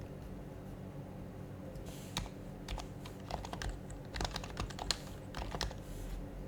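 Typing on an HHKB Professional HYBRID Type-S keyboard, whose silenced Topre switches give soft, muted keystrokes. After a quiet first two seconds come a few short bursts of keystrokes.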